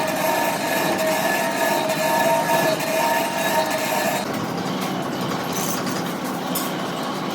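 Heavy machinery running with a steady rumble and a high, slightly wavering metallic squeal that stops about four seconds in.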